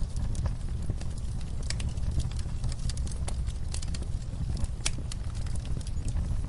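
Wood fire crackling: sharp irregular pops and snaps over a low, steady rumble of the flames.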